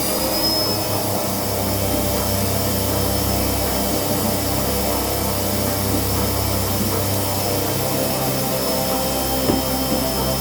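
Vacuum cleaner running at full speed, its motor whine climbing as it spins up just after being switched on and then holding a steady high pitch over a steady rush of air.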